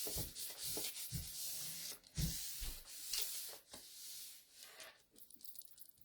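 Wax paper rubbed back and forth over cardstock in quick, scratchy strokes that die away near the end.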